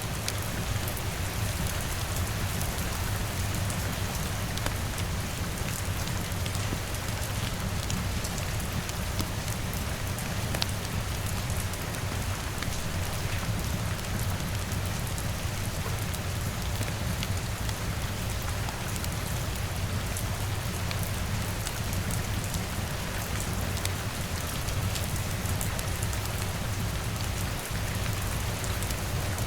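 Steady rain against a window, an even hiss dotted with many small ticks of drops, over a constant low rumble.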